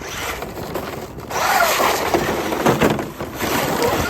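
Traxxas RC truck driving hard over rough ground: its electric motor whines, rising and falling in pitch with the throttle, over a rough rattle of tyres and chassis with a few knocks.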